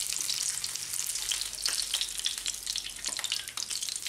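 Floured pufferfish pieces shallow-frying in hot oil in a pan: a steady sizzle full of fine crackles, with a few sharper pops.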